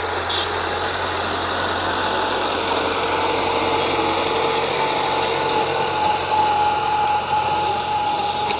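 T-40 wheeled tractor's air-cooled diesel engine running steadily, with a thin whine over the engine noise from about two seconds in.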